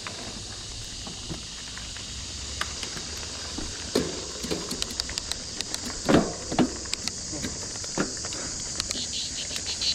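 Mountain bike rolling over a rough dirt trail: tyres crunching and the bike rattling, with a run of knocks and a few heavier thumps from about four seconds in, over a steady high hiss.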